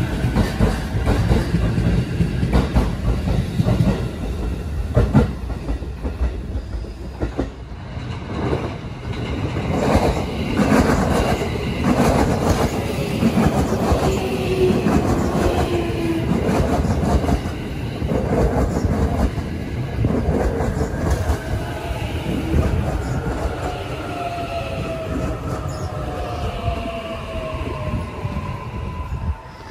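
E531 series electric train moving along the platform: wheels clacking over rail joints and a steady rumble, with the motors' whine gliding slowly in pitch.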